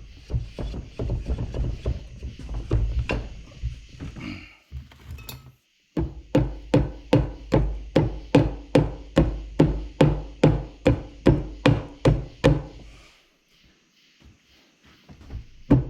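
A hammer repeatedly striking the steel retaining collar and plunger of a hydraulic loader cylinder to drive them out, each blow with a metallic ring. The blows are irregular at first, then after a brief pause come as a steady run of about two to three a second before stopping near the end.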